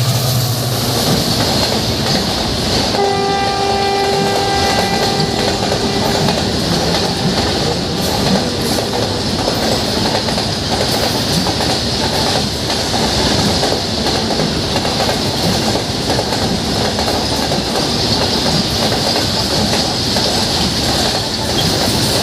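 Indian Railways train running past at close range, its wheels clattering steadily over the rail joints. A long two-tone horn blast sounds about three seconds in and lasts about three seconds.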